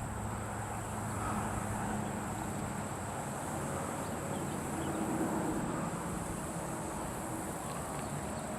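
Steady low rumble of distant road traffic, rising a little about halfway through.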